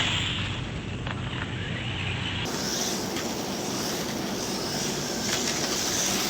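Small 1/28-scale electric RC car whirring as it laps a carpet track, over a steady wash of outdoor wind and background noise.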